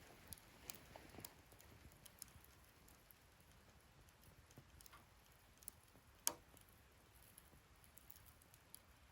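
Wood fire burning in a fire stand, crackling faintly with scattered sharp pops, one much louder pop about six seconds in.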